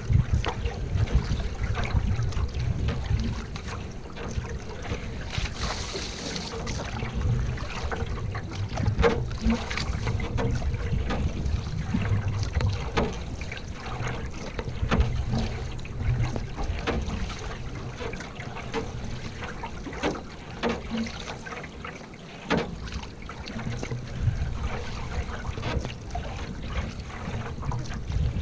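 Paddling a canoe: water trickling and splashing off the paddle, with irregular light knocks, over a low rumble of wind on the microphone.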